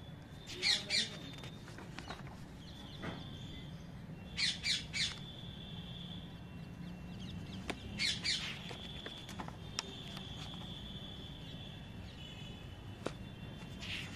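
Birds calling in short, squawky calls, two or three in quick succession every few seconds, over a steady low hum.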